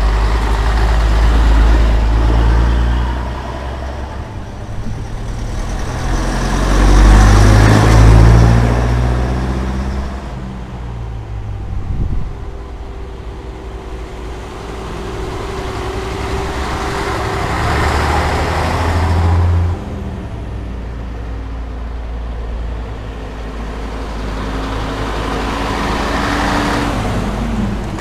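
Old Scania-Vabis bonneted trucks driving past one after another, their diesel engines swelling and fading with each pass, about four passes, the loudest some seven or eight seconds in.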